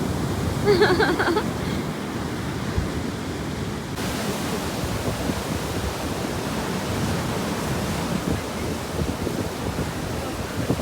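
Sea surf washing onto the beach, a steady rush of waves with wind buffeting the microphone.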